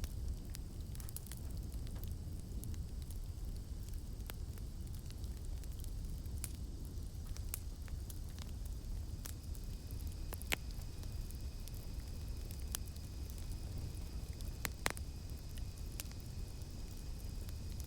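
Campfire burning: a low steady rumble of flames with irregular crackles and sharp pops of burning wood, two louder pops standing out in the second half. A faint steady high-pitched drone of night insects runs behind it, and a second, lower drone joins about halfway through.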